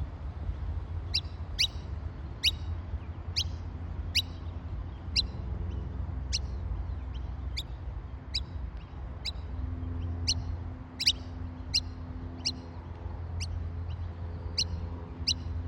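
Bird calling with short, sharp chirps, repeated irregularly about once or twice a second, over a steady low rumble.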